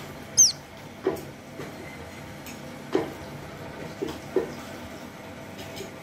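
A nestling bird gives one sharp, high squeak about half a second in, followed by several soft short sounds spaced about a second apart.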